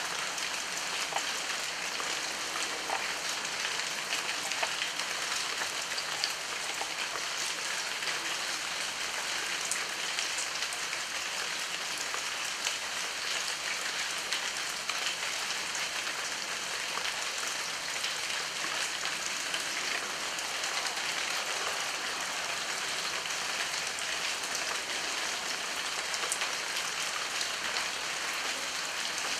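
Heavy rain falling steadily, a continuous hiss with individual drops ticking through it.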